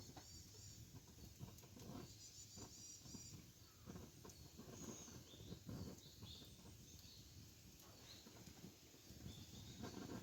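Wood fire crackling faintly, with a few sharp pops. Small birds chirp in short calls in the background.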